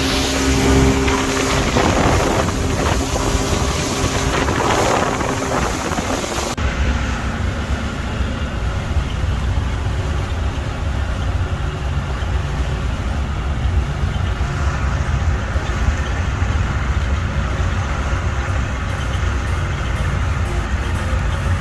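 A motor vehicle's engine running steadily, with wind buffeting the microphone. The hiss drops away about six seconds in, leaving mostly the low engine rumble.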